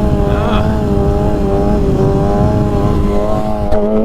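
Stunt motorcycle engine running at a steady rpm, one constant droning note, over wind rumbling on the on-board microphone.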